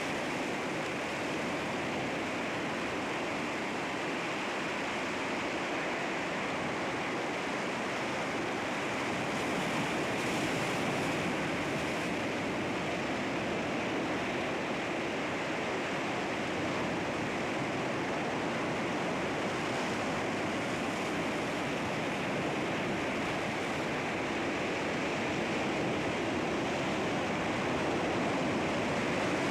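Sea waves washing against rocks: a continuous rushing surf that swells slightly a few times.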